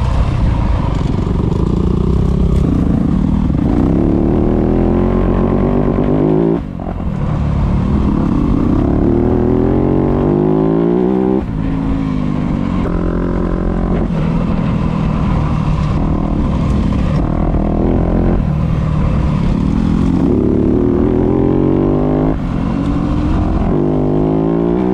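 Dirt bike engine heard through a GoPro's built-in microphone, revving and climbing in pitch again and again as the bike accelerates on the trail. The throttle briefly drops off about six and a half seconds in, again around eleven and a half seconds, and once more near the end.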